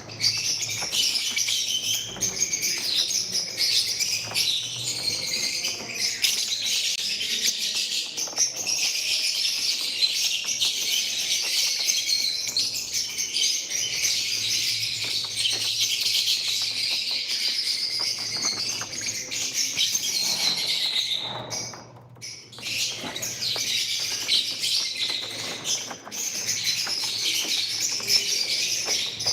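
Many lovebirds chirping and chattering without a break, with a short lull about three-quarters of the way through.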